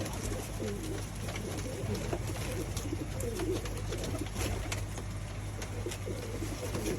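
Domestic pigeons cooing, several low coos overlapping throughout, with scattered light clicks.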